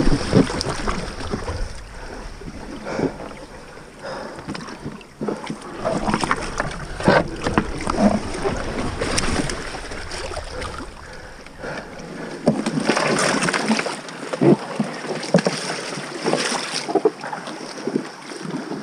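A small boat being paddled through a shallow river channel: irregular water splashes and knocks of paddles against the hull.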